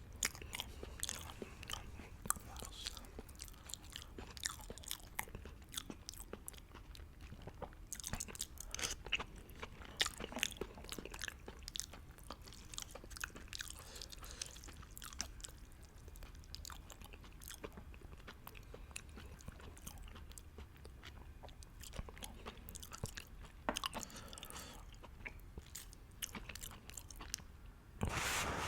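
Close-miked chewing of a mouthful of beef hot pot noodles: a run of irregular wet clicks and small crunches. Near the end a louder rush of noise starts.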